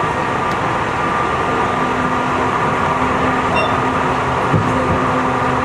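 Running noise heard inside the passenger car of a Tobu 50090 series electric train at speed: a steady rumble of wheels on rail, joined about one and a half seconds in by a steady low hum.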